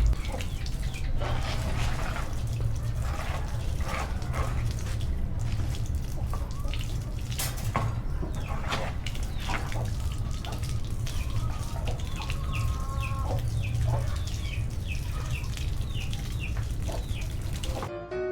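Water running and splashing as a wire cat cage is washed by hand with a soapy cloth, with frequent small knocks and clatters and short animal calls in the background.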